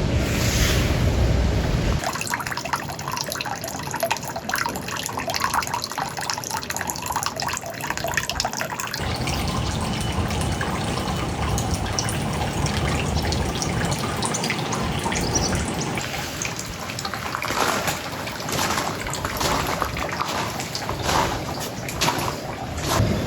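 Rain with water dripping and trickling onto hard surfaces, a dense patter of drops over a steady wash. The sound changes abruptly about two, nine and sixteen seconds in, as one take cuts to the next.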